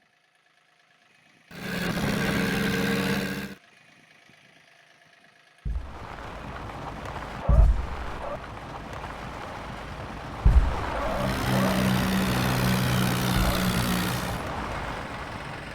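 Tractor engine running in short cut pieces: a brief stretch of steady engine note, a pause, then continuous running with two heavy thumps a few seconds apart and the steady engine note returning near the end.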